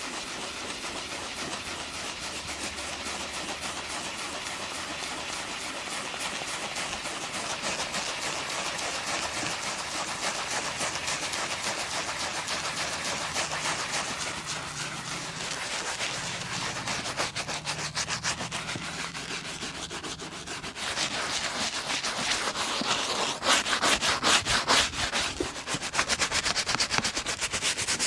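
Rapid back-and-forth rubbing strokes on a shoe during polishing. The strokes get louder and sharper about three quarters of the way in.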